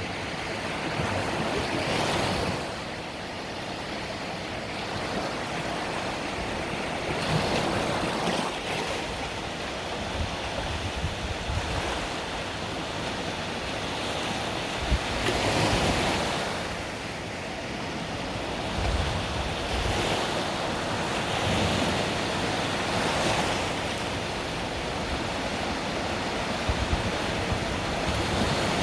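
Mediterranean sea waves breaking and washing on the beach, swelling every few seconds, with wind rumbling on the microphone.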